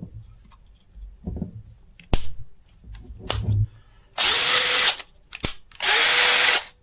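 Craftsman 20V RP brushless cordless drill driver run with no load in two short trigger pulls, each under a second, its motor holding a steady pitch. Before them, several clicks and knocks of the tool being handled and switched.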